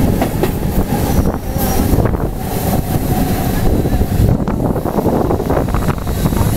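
Wind buffeting the microphone over the rumble of a MEMU local train running at speed, as an LHB express passes on the next track. Loud and continuous, with no breaks.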